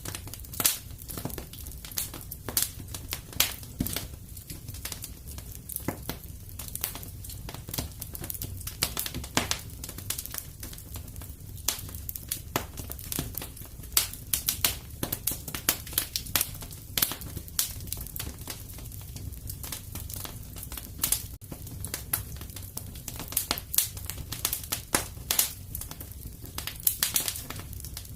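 Wood fire in a fireplace crackling and popping irregularly over a low steady rumble.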